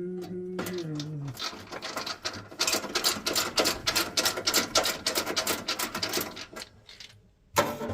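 A man's voice holds a note, stepping down in pitch, over about the first second and a half. Then comes a dense run of rapid, irregular clicking and rattling, like hand tools and metal boiler parts being handled, which dies away near the end.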